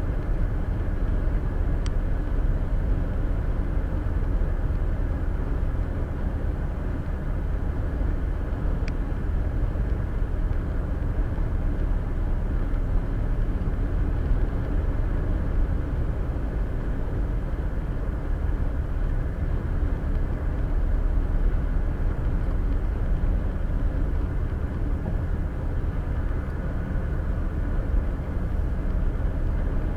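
Steady road noise of a car cruising on a highway, heard from inside the cabin: a low tyre and engine rumble with no change in speed. Two faint ticks, about seven seconds apart, early on.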